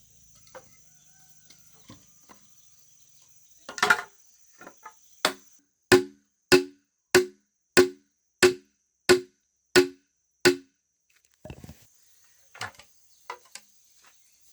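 Bamboo being struck repeatedly with a tool: a run of about eight evenly spaced hollow knocks, one roughly every two-thirds of a second, each with a short pitched ring, after a few scattered knocks.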